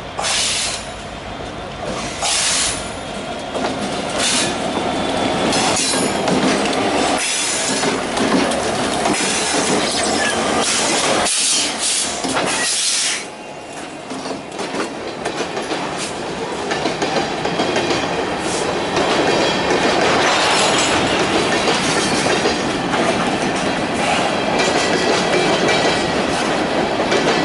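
Canadian Pacific freight train passing close by: GP20C diesel locomotives running as they go past, then a string of covered hopper cars rolling by, their wheels clacking over the rail joints.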